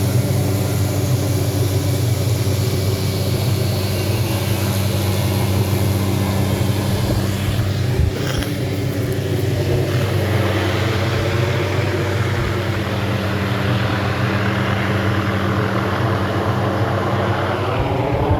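An engine running with a steady, unbroken drone.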